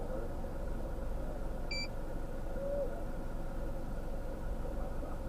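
A vehicle engine idling with a steady low rumble and hum, and a single short high beep just under two seconds in.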